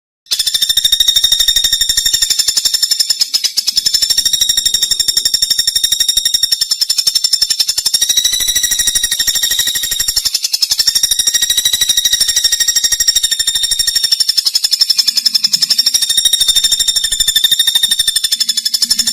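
A continuous, loud, high-pitched buzzing trill of very rapid pulses, starting abruptly just after the beginning, from a recording used as 'master' material for training songbirds.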